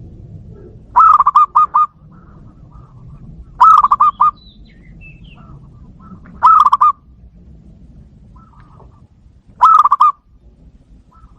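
Zebra dove cooing: four loud calls about three seconds apart, each a quick run of three or four rolling notes, with a few faint softer notes in between.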